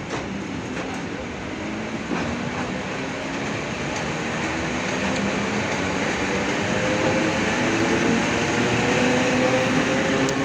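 Electric train pulling away: the whine of its traction motors and gearing rises steadily in pitch as it grows louder, over the rumble of wheels on the rails. There is a single knock about two seconds in.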